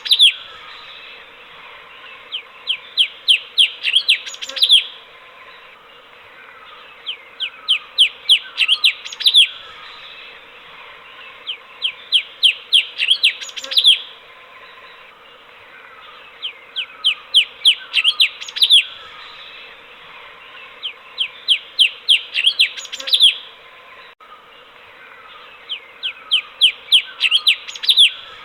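Cucak cungkok bulbul singing one phrase over and over: a quick run of about eight short downward-sweeping notes ending in a louder note, repeated roughly every four and a half seconds over a steady hiss.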